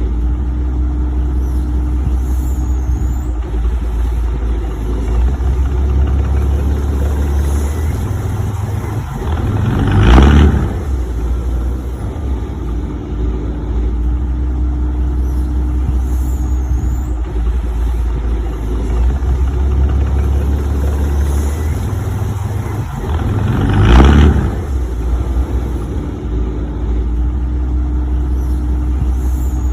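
Heavy-vehicle engine sound running steadily with a deep rumble, swelling loudly twice, about ten seconds in and again near the twenty-four-second mark.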